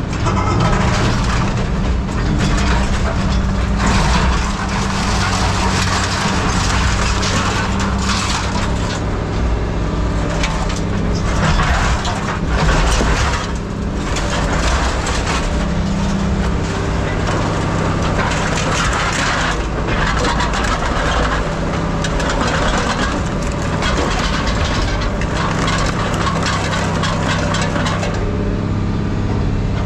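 A tracked heavy machine's engine running steadily, with scrap metal crunching and scraping loudly over it in uneven bursts.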